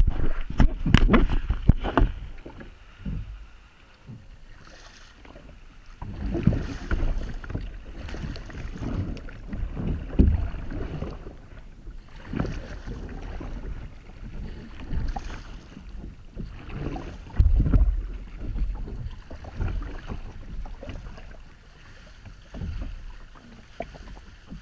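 Sea water sloshing and splashing in irregular surges, with wind buffeting the action-camera microphone. A quick run of knocks comes in the first two seconds.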